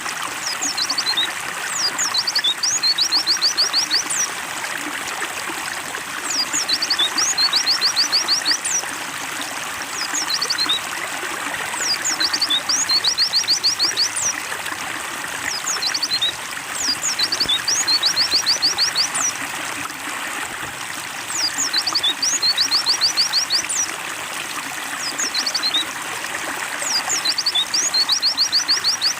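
Water trickling steadily, with recurring short bursts of rapid, high chirping notes from a white-eye (pleci) every few seconds.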